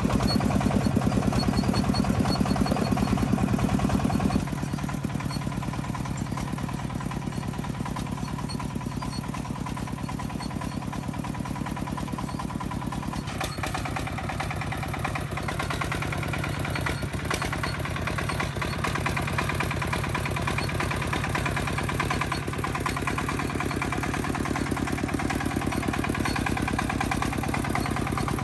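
Engine of an agricultural transport vehicle running steadily with an even beat. It drops noticeably in loudness about four seconds in and changes tone again a little before halfway.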